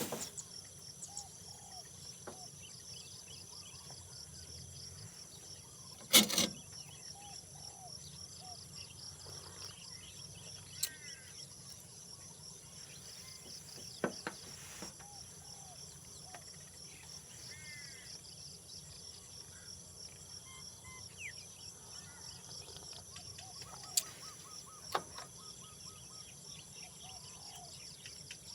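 A steady, high-pitched, pulsing insect chorus of crickets, with scattered short bird chirps. A single loud knock comes about six seconds in, and a few fainter clicks come later.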